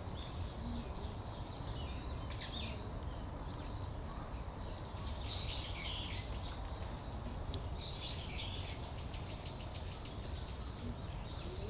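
Insects chirring steadily in one continuous high-pitched band, with a few faint short bird calls over it and a low background rumble.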